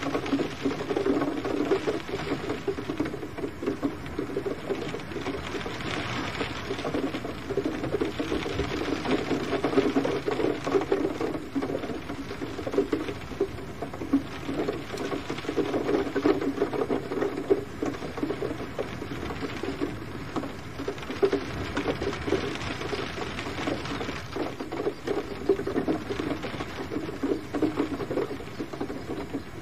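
Gentle rain falling steadily, a dense, even patter of drops.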